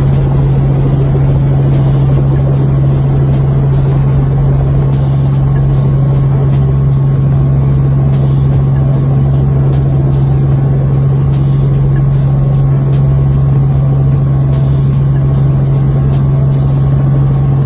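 Tour helicopter in flight, heard from inside the cabin: a loud, steady drone with a constant low hum that does not change.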